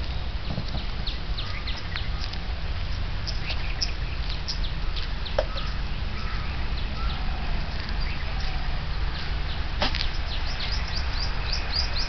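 Birds chirping and calling in short repeated notes, busier near the end, over a steady low rumble, with one sharp knock about ten seconds in.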